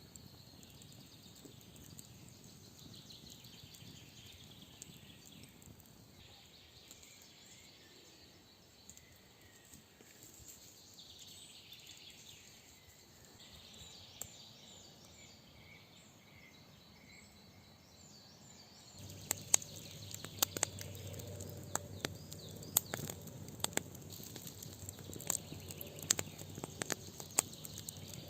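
Faint songbirds calling in a quiet forest. About two-thirds of the way through the background turns louder, with many sharp, irregular clicks and cracks.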